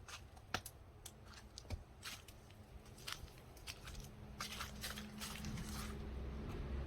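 Scattered light clicks and taps of objects being handled, over a low hum that grows louder in the second half.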